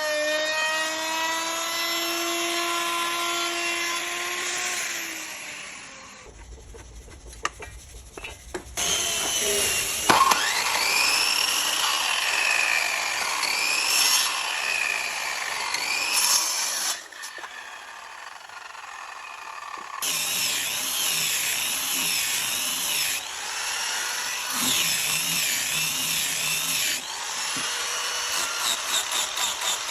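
Power tools working wood in a series of short clips. A motor runs at a steady pitch, then sags and stops about five seconds in. After that comes cutting or sanding noise whose pitch wavers under load, changing abruptly several times.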